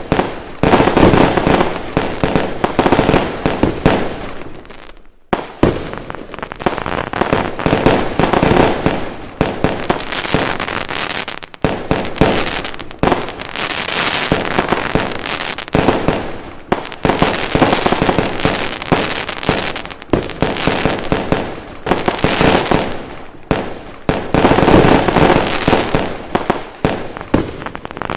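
A fireworks display: dense, continuous bangs and crackling from bursting fireworks and firecrackers, with brief lulls about five and eleven seconds in.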